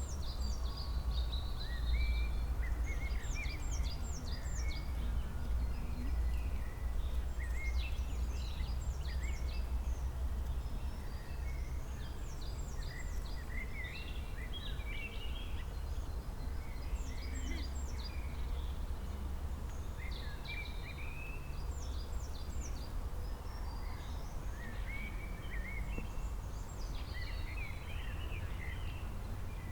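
Several songbirds singing, one of them repeating a short phrase of quick high notes about every four to five seconds among scattered chirps. A steady low rumble runs underneath.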